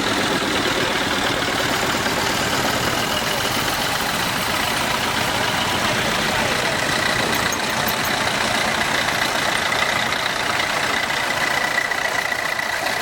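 Vintage tractor engines running steadily.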